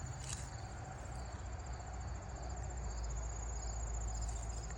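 Crickets trilling steadily in a high, fast-pulsing chirr, with a fainter second insect trill and a low steady rumble underneath. One short click about a third of a second in.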